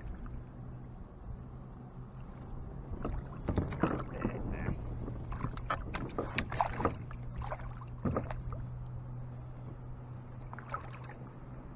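Knocks and rustling in and against a kayak as a freshly caught catfish and the fishing gear are handled: a run of irregular knocks and scrapes for about five seconds in the middle, a few more near the end, over a steady low hum.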